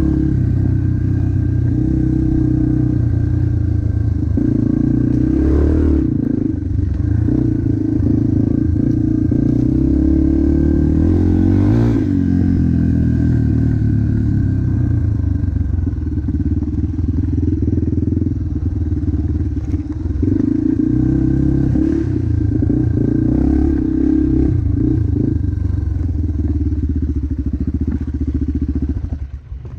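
Motocross dirt bike engine running hard, its pitch climbing and falling again and again as the throttle is worked. The level drops sharply near the end.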